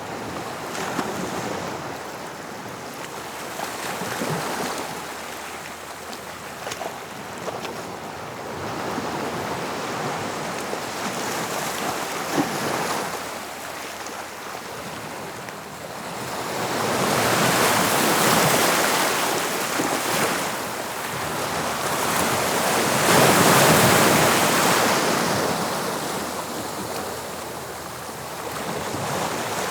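Sea waves breaking and washing on the shore, swelling and fading in slow surges, the two biggest about halfway through and two-thirds of the way in, with light wind on the microphone.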